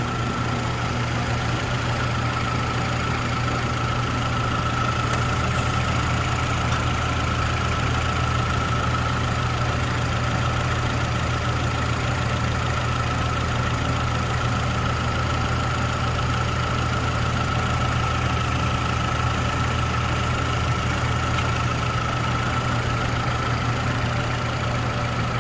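2013 Nissan Rogue's 2.5-litre four-cylinder engine idling steadily, with a constant high whine over the engine note.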